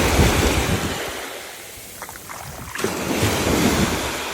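Wind gusting on the microphone over waves washing up on the beach. The gusts ease off for about a second in the middle, leaving a few faint clicks, then pick up again.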